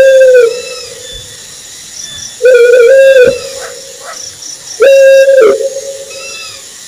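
An owl hooting: a series of clear, level-pitched hoots, each under a second long, repeating about every two and a half seconds.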